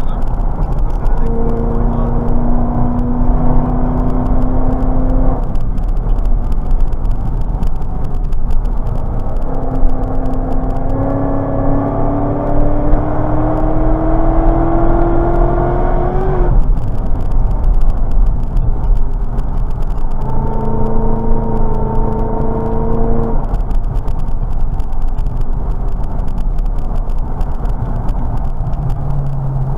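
Chevrolet Corvette C6's V8 engine heard from inside the cabin at track speed, over steady road and wind noise. It holds steady revs, then pulls for about seven seconds with a rising pitch, cuts off abruptly, and later holds steady again.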